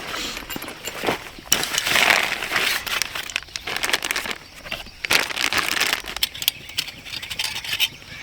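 Rustling and crinkling, with many scattered clicks and light knocks, as of things being handled.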